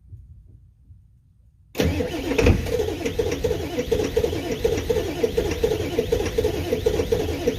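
Straight-piped 7.3 L turbo diesel V8 being started in 10 °F cold on bad glow plugs. A loud, rhythmic chugging begins suddenly about two seconds in, runs for about six seconds, then stops abruptly.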